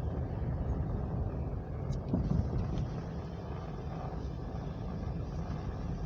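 Car driving on a snowy road, heard from inside the cabin: a steady low rumble of engine and tyres, swelling briefly about two seconds in.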